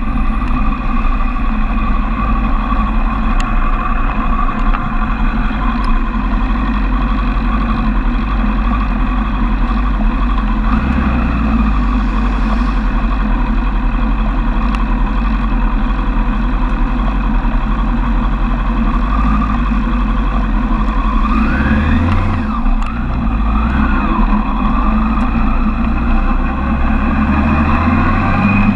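Suzuki Bandit 1200's inline-four engine running at low road speed, with the revs rising and falling briefly twice a little after two-thirds of the way through.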